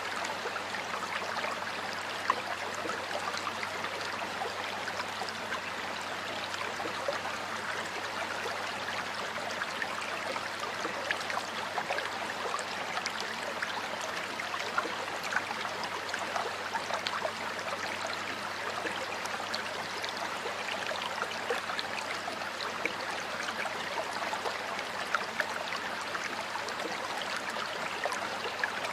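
Water flowing in a stream, a steady even rush with many tiny splashes and drips throughout.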